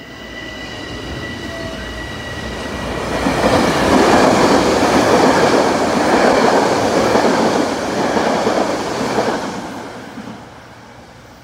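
Metro-North electric commuter train passing close along the platform track. Its wheels and running gear rumble louder as it nears, stay loud for about six seconds while the cars go by, then fade near the end. A faint high steady whine sounds during the approach.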